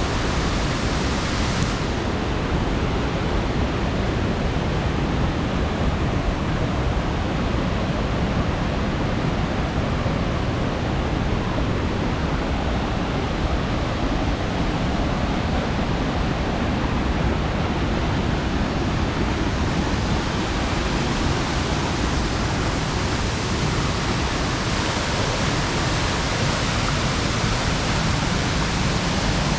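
Rushing water of a mountain-gorge waterfall: a steady, dense rush of noise with no breaks, its hiss a little brighter in the last third.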